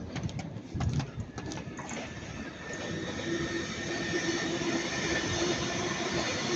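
Northern class 331 electric train running along the track toward the microphone, getting steadily louder, with a steady high tone and a lower hum over the rail noise. Scattered clicks and knocks come in the first two seconds.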